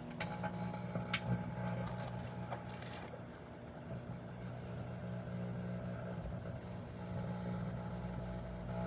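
Microwave oven running with a steady hum, after two sharp clicks in the first second or so.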